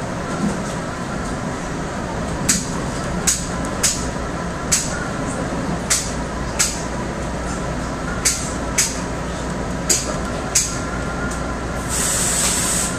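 Inside an NJ Transit commuter train car in motion: a steady running rumble broken by sharp clicks of the wheels passing over rail joints, often in pairs. A brief hiss comes near the end.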